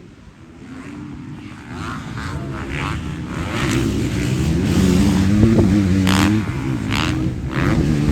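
Motocross bike engines revving up and down, growing louder over the first few seconds as they come close and staying loud to the end. Wind buffets the microphone.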